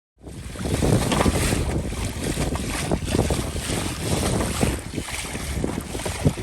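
Strong wind buffeting the microphone over the rush and slap of water against a fishing kayak's hull as it motors into the wind.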